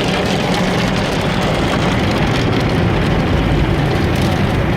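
Automatic car wash machinery working over the car, heard from inside the cabin: a steady, loud rush of spray and motor noise with a low rumble underneath.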